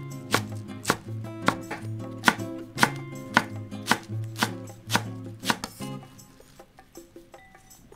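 Kitchen knife chopping on a cutting board in a steady rhythm of about two strokes a second, stopping about two-thirds of the way in, over soft background music.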